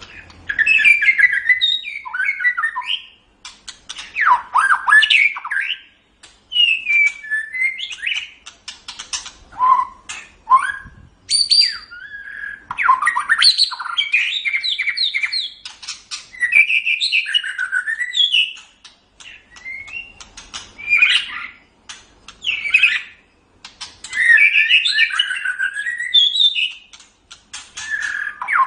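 White-rumped shama singing: phrases of rapid, varied whistles, trills and harsh notes a few seconds long, with short pauses between them.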